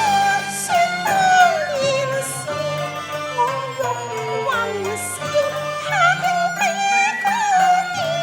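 Traditional Cantonese opera ensemble playing an instrumental passage between sung lines. A melody slides and bends between notes over steady held lower notes, in traditional Chinese style.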